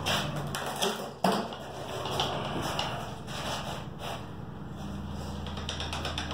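Knocks and clatter of a dirt bike being lifted and handled on a garage floor, with one sharp knock about a second in.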